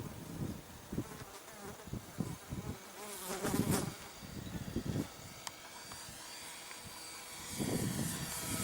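Small electric radio-controlled L-19 Bird Dog model plane's motor and propeller buzzing thinly in flight, the pitch bending up and down around the middle, with gusts of wind buffeting the microphone.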